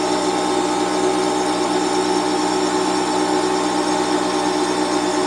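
Bostitch 6-gallon air compressor's motor and pump running with a steady hum, filling the tank with air.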